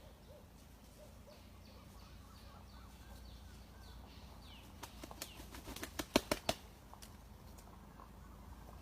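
A rooster flapping its wings in a quick run of sharp claps lasting about a second and a half, about halfway through, with small birds chirping faintly around it.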